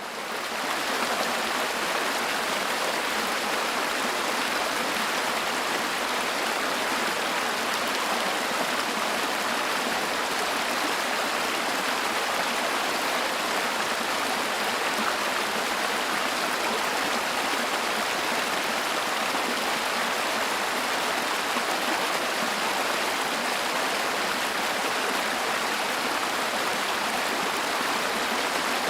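The Danube in flood, its fast high water rushing in a steady, unbroken roar.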